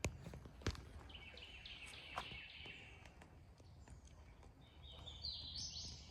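Faint songbird song outdoors: short chirping phrases repeated in two bouts, over a low steady rumble. Two sharp clicks in the first second.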